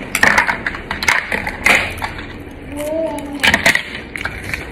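Close-up eating sounds: crisp crunching as pickled cucumber from the acar is chewed, with sharp clicks of a metal spoon against a plate. A brief humming voice comes about three seconds in.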